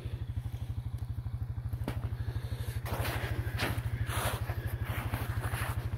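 ATV (quad) engine idling with a steady, even low putter.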